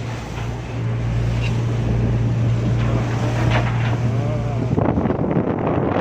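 A boat's engine drones steadily under wind buffeting the microphone and the rush of the sea; about five seconds in the engine drone drops out and a rougher rush of wind and water takes over.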